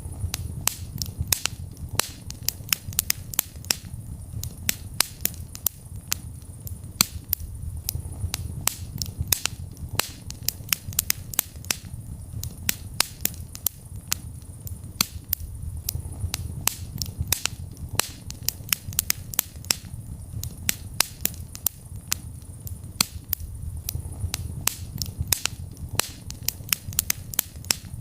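Wood fire burning in a fireplace: many sharp, irregular crackles and pops, several a second, over a low steady rumble of flame.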